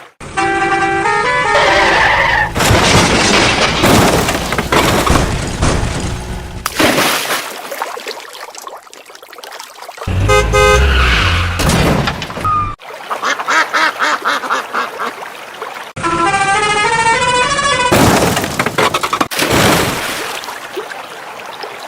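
A string of edited sound-effect clips cut together abruptly every few seconds: vehicle horns honking and tooting, stretches of vehicle engine noise, and short stepping-tone jingles.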